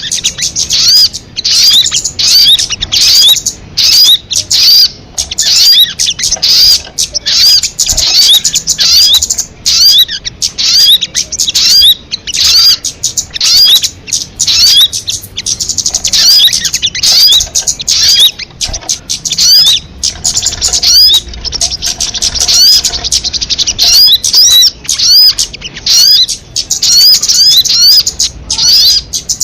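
Sogon (crimson sunbird) song: loud, rapid, high-pitched twittering of short quick chirps, delivered in phrases with brief pauses about once a second.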